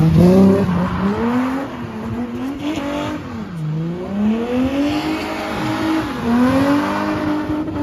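BMW E30 spinning car's engine revving hard, its pitch rising and falling in waves every two to three seconds, while the rear tyres spin on the tarmac with a hiss and some squeal.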